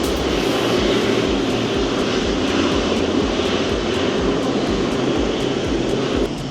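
A jet airliner's engines make a loud, steady rushing noise, with a regular low pulse about twice a second underneath. The noise drops off abruptly near the end.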